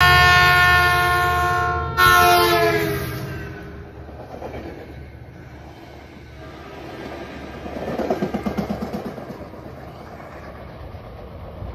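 Metrolink commuter train horn blowing, cut off abruptly about two seconds in and followed at once by another horn blast that drops slightly in pitch and fades. Then comes the rumble of passing passenger cars, with a run of quick, even wheel clicks over the rail joints around eight seconds in.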